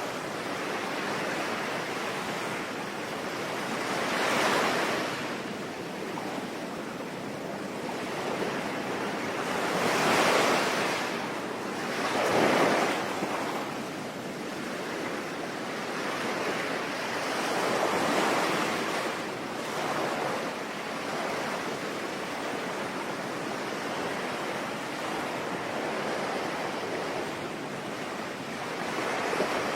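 Sea waves washing onto a shore, the surf swelling and falling away every few seconds, over a steady hiss of rain.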